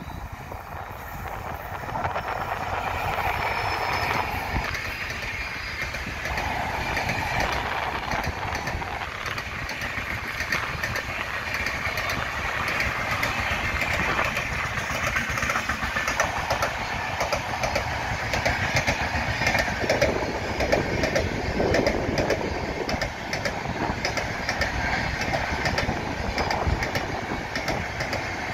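Passenger express train passing close by: a steady rumble with the rhythmic clickety-clack of its coaches' wheels over rail joints, growing louder about two seconds in and staying loud.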